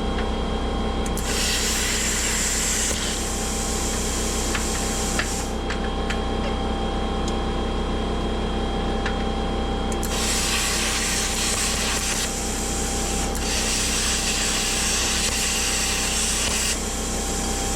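Plasma cutter cutting steel unistrut: the cutting arc hisses in three bursts, a short one near the start, then two longer ones about ten seconds in, with a few sharp clicks between them. A steady machine hum runs underneath throughout.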